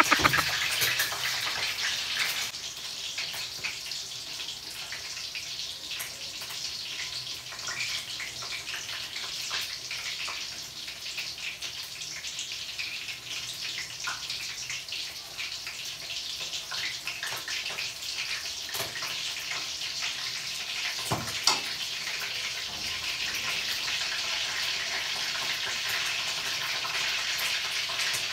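Chicken frying in hot oil in a wok, a steady sizzle with fine crackling. One sharp knock comes about three-quarters of the way through.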